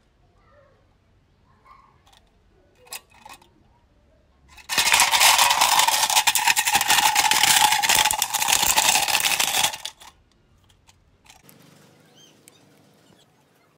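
A small electric motor runs at speed as a loud, even buzz for about five seconds, starting and stopping abruptly. A few light clicks of handling come before it.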